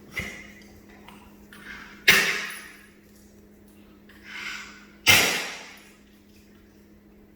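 French bulldog snoring: two loud snores about three seconds apart, each starting abruptly and fading out within a second, with a softer breath just before each.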